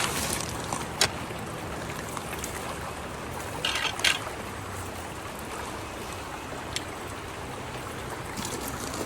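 Water running and trickling through a culvert, with a sharp knock about a second in and a brief splash ending in another knock around four seconds in as debris is worked out of the blockage.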